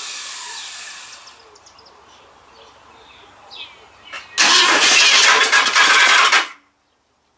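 1966 Ford Thunderbird V8 being cranked by its starter on a first start attempt after sitting for about 20 years: one burst of cranking of about two seconds that stops abruptly, with the engine not yet catching. A fading sound from an earlier crank trails off in the first second.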